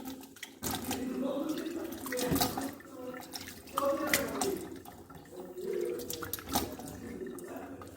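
Water splashing irregularly as a face is washed by hand with rice-rinsing water over a sink.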